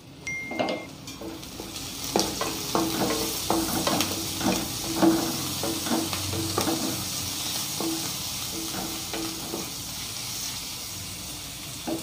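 Chopped onions, green chillies, curry leaves and crushed ginger-garlic sizzling in hot oil in a metal kadai, stirred so that the spatula scrapes and knocks against the pan again and again over a steady frying hiss.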